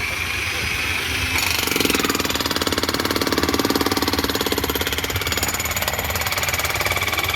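A powered digging machine used to break the ground at a mine pit, running with a loud, rapid, even hammering.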